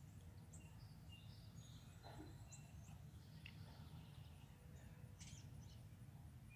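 Faint, scattered chirps and short calls of small songbirds over a steady low background noise.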